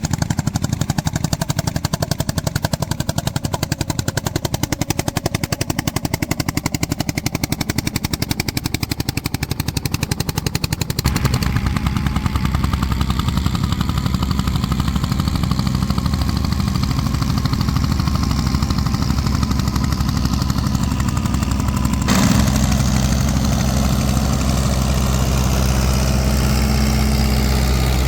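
Vintage tractor engines running, heard in three takes that cut in about 11 and 22 seconds in. The first is a rapid, even beat of separate firing strokes; the later two are a steadier, deeper engine hum.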